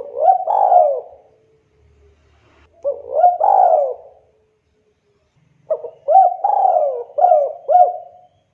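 Spotted dove cooing: three phrases of its call, the third longer with more notes.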